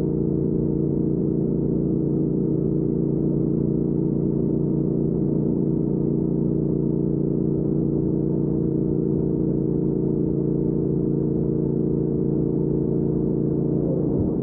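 2019 Triumph Speed Twin's 1200 cc parallel-twin engine running at steady cruising revs through a Weslake Shorty Pro aftermarket exhaust, its pitch holding even.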